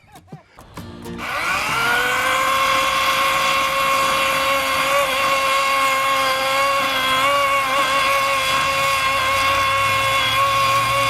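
Cordless battery chainsaw revving up about a second in, then running at a steady high whine.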